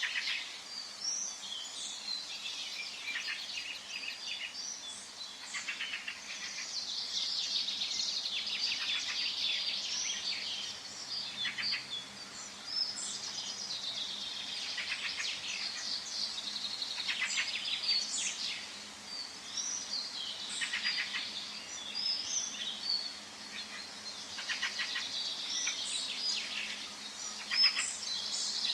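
Several songbirds singing and chirping at once, with many overlapping trills and short calls throughout, over a faint steady background hum.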